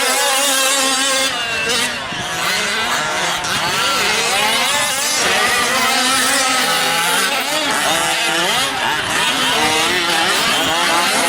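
Several 5th-scale gas RC trucks' small two-stroke engines racing, their pitches rising and falling over one another as they rev up and back off around the track.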